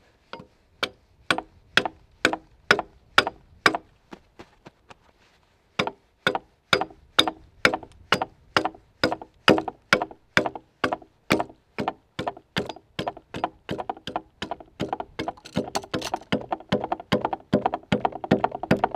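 An axe chopping into a log timber to cut a notch, with steady strokes about two a second. The strokes pause for a moment about four seconds in, then resume and come faster and thicker near the end.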